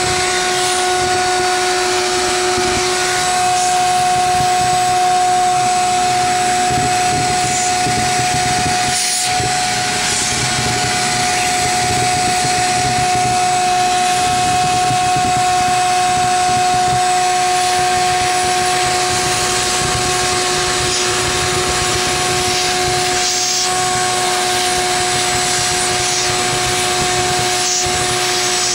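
Bee vacuum running steadily with a constant motor whine, sucking bees off the comb.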